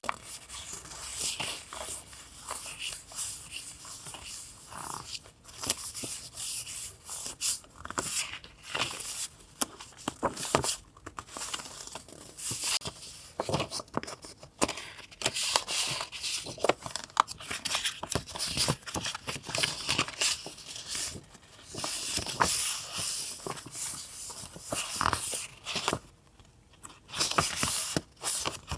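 Paper being handled for a collage: irregular rustling, crinkling and tearing, with sharp crackles throughout.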